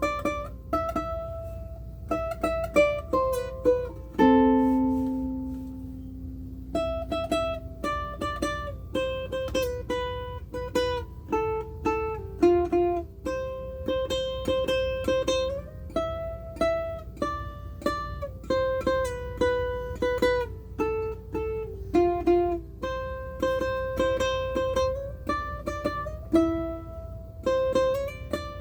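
aNueNue UC-110 Green Bird concert ukulele played solo: a simple tune of plucked single notes and short chord strums, with one longer ringing chord about four seconds in.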